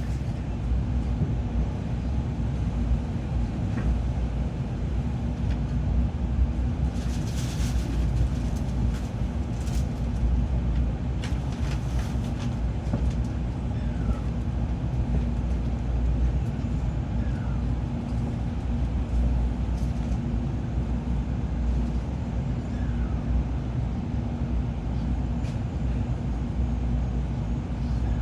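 Cabin noise inside a Tokaido Shinkansen 700-series car: a steady low rumble with a constant hum, and a few short clicks a quarter to halfway through.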